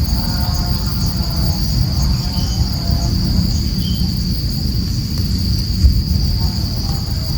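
Insects, cricket-like, trilling in one steady high-pitched drone that never stops, over a constant low rumble, with a few faint short chirps.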